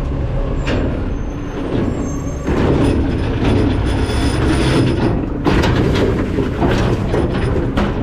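Hopper of a McNeilus ZR rear-loading garbage truck working, with metal grinding and squealing and scattered knocks. It gets louder about two and a half seconds in.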